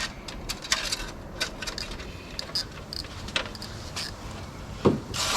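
Aerosol spray can and its thin extension tube being handled and worked against a steel panel: scattered light clicks and taps, with a louder knock about five seconds in. The can's spray hiss starts at the very end.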